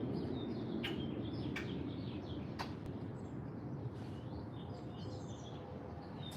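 Small songbirds chirping in short, scattered calls, over a steady low background rumble, with a few sharp clicks in the first few seconds.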